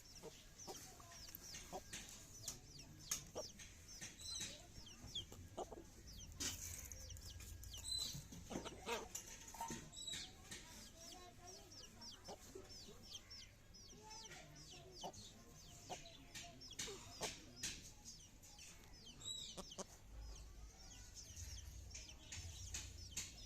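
Parrots calling in many short chirps and squawks, with some calls overlapping, plus a few clicks.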